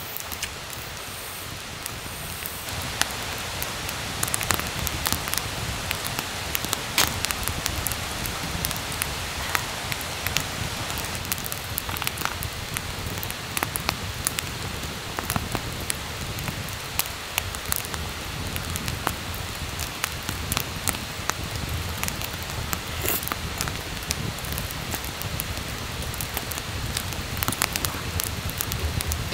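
Steady rain falling on a camp shelter, with many sharp drop hits scattered through it.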